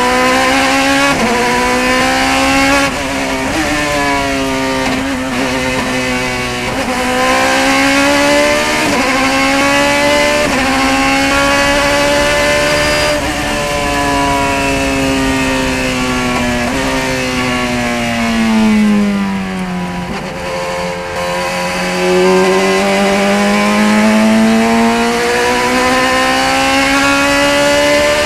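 Racing car's high-revving engine under hard acceleration, the pitch climbing and snapping down again and again through quick gear changes. About two-thirds of the way through, the note falls away steadily as the car slows for a corner, then climbs again as it accelerates out.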